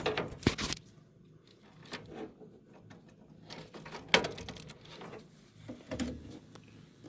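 A few short knocks and clicks of hands and tools working at the furnace, over a faint low background hum.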